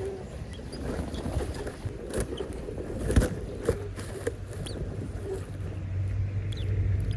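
Faint, short high cheeps from nestling birds, among scattered rustling and scratching clicks in the nest, with a louder knock about three seconds in and a low steady hum underneath.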